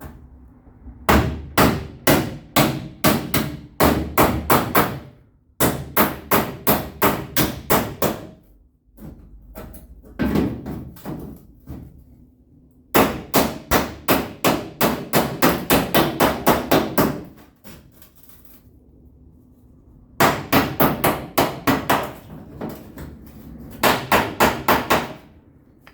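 Body hammer striking the sheet-steel quarter panel against a dolly, in six runs of quick, even blows about three a second with short pauses between, leveling out a dent.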